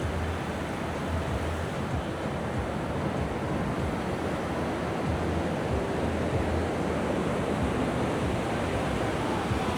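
Sea waves washing steadily onto the beach, a continuous surf noise, with wind rumbling on the microphone at times.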